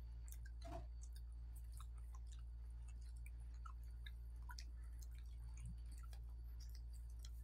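Faint chewing and small wet mouth clicks of people eating with their hands, over a steady low hum.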